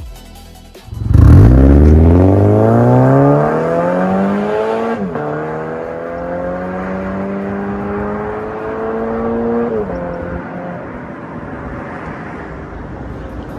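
Toyota 86's FA20 flat-four accelerating hard through an MS-R valved cat-back exhaust. It comes in loud about a second in, the revs climb and fall at an automatic upshift about five seconds in, climb again to a second upshift near ten seconds, then the note settles and fades.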